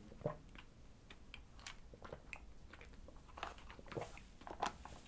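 Faint close-miked mouth sounds of sipping a thick smoothie through a straw and chewing: a scatter of small wet clicks and smacks, one sharper click just after the start.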